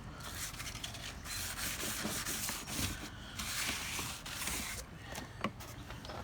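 Wet-and-dry abrasive paper rubbed by hand across a bumper in long scraping passes, with a short break about three seconds in and lighter strokes near the end. The sanding takes off the top layer and dulls the shine.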